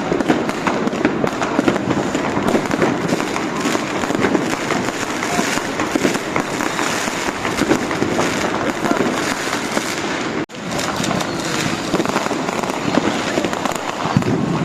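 Many fireworks and firecrackers going off at once, a dense, continuous crackle of overlapping bangs. The sound cuts out for a split second about ten seconds in.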